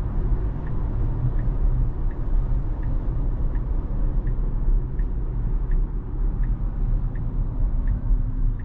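Tesla turn signal ticking steadily, about one and a half ticks a second, under a steady low road rumble inside the car's cabin. The signal is on for a lane change into the right lane that the dense traffic will not yet let the car make.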